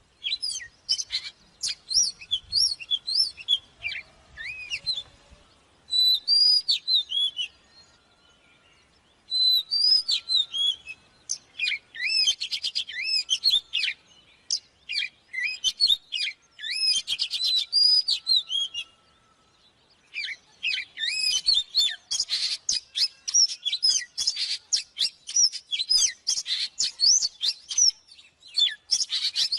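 Oriental magpie-robin singing: a run of varied whistled phrases mixed with fast, dense trills, broken by short pauses about 8 and 19 seconds in.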